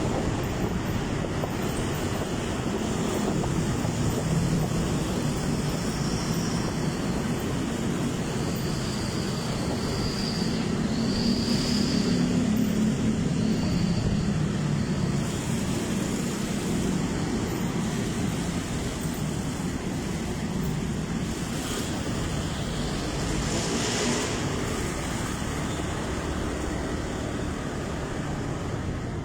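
Motorcycle running on the road: a steady engine and road-noise rumble, with a few faint high chirps near the middle.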